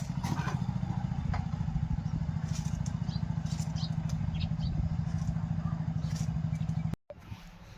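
An engine running steadily at idle, a low pulsing hum, which cuts off abruptly near the end.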